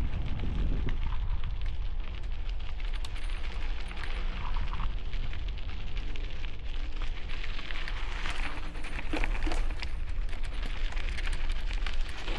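Bicycle tyres rolling on gravel, a steady crackle of small stones, with wind rumbling on the helmet-mounted microphone.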